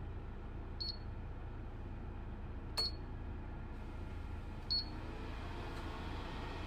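Electronic space heater's control panel beeping three times, short high beeps about two seconds apart, the middle one with a sharp click, as its settings are pressed; a steady low hum runs underneath.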